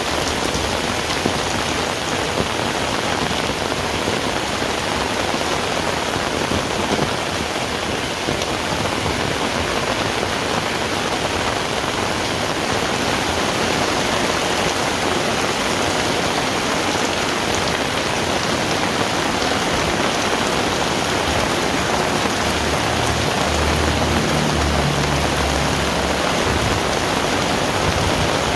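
Heavy rain falling steadily, a dense, even hiss. A low rumble comes in about 22 seconds in and lasts a few seconds.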